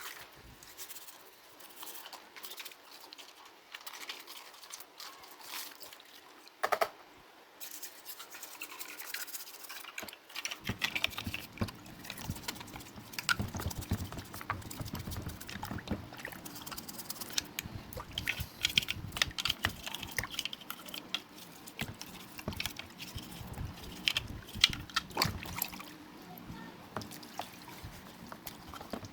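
Irregular brushing, scraping and rubbing with small clicks and knocks as small parts of a mini ceiling fan are worked on by hand, with a sharp knock about seven seconds in.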